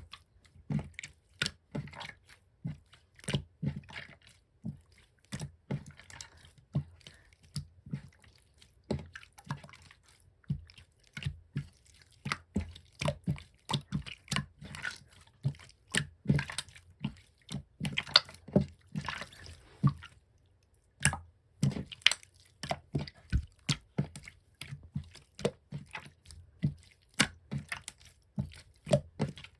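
Yellow glossy 'chisel'-type slime being squished and pressed by hand, giving a steady run of sharp wet clicks and pops, several a second, with a brief pause about twenty seconds in.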